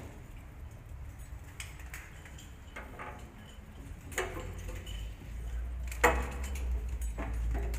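Scattered sharp clicks and knocks, about six in all, the loudest about six seconds in, over a low rumble that grows louder about five seconds in.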